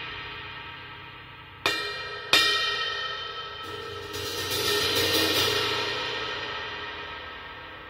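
Repaired Sabian AAX 20-inch Explosion Fast Crash, its cracked section cut out, being test-played. A ring decaying from an earlier hit is followed by two sharp strikes less than a second apart, under two seconds in. The cymbal swells up again a few seconds in and fades away slowly.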